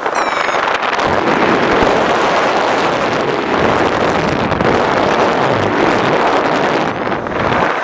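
Strong wind buffeting the microphone: a loud, steady rush of noise that dips briefly near the end.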